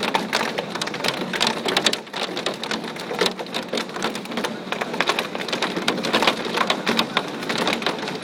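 Hail pelting down: a dense, irregular clatter of sharp ticks from hailstones striking hard surfaces, over the steady hiss of heavy rain.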